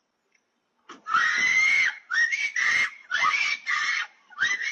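A person screaming in pain in a run of about four loud screams, each roughly a second long, starting about a second in.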